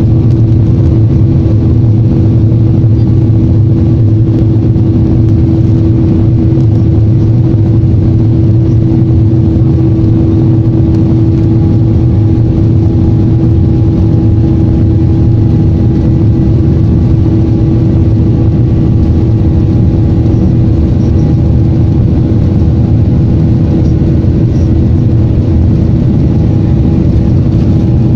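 Airliner jet engines heard inside the passenger cabin: a loud, steady rumble with a constant hum over it.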